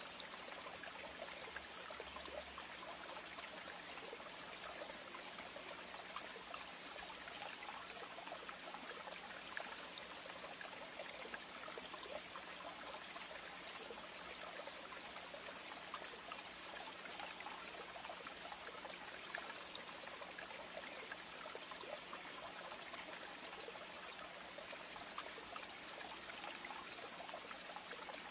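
Steady trickling of running water, an even hiss with fine crackle and no change throughout, over a faint steady low hum.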